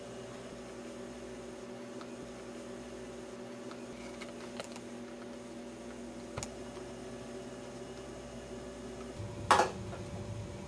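Quiet, steady hum of room tone with a few faint clicks, and one short knock about nine and a half seconds in.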